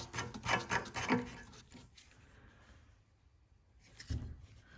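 A lawn mower's gas cap being twisted off the fuel tank: a quick run of short rasping twists in the first second or so, then a brief faint handling sound near the end.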